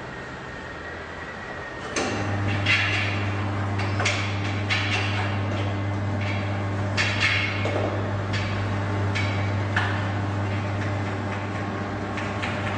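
Electric motor of a heavy-duty tyre changer starting up about two seconds in and running with a steady hum. Sharp metal clanks and knocks come at irregular intervals over the hum.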